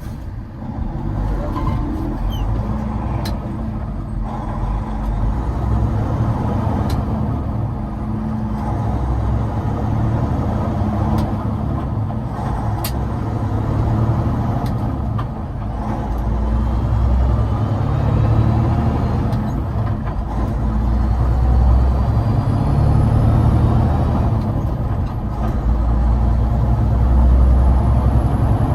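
Semi-truck's diesel engine pulling through a run of upshifts on an 18-speed manual transmission while the truck accelerates from a stop. The engine note breaks briefly every few seconds at each shift, and a few sharp clicks come through.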